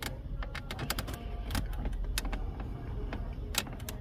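Irregular light plastic clicks and taps as a trim tool pries at the dashboard panel around a Fiat Toro's factory radio, its plastic retaining clips working loose.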